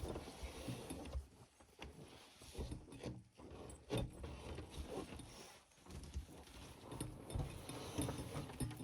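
Irregular crunching footsteps in snow with scraping and knocking as a nearly empty freezer is shimmied along by hand.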